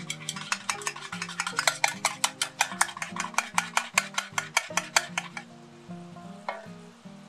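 Eggs being beaten briskly in a bowl: a fast, even run of clicks, about six or seven strokes a second, that stops a little after five seconds in, followed by a single tap near the end.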